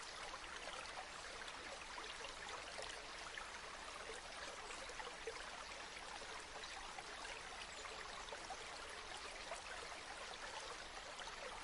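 Flowing river water: a steady, faint babble of small splashes and trickles.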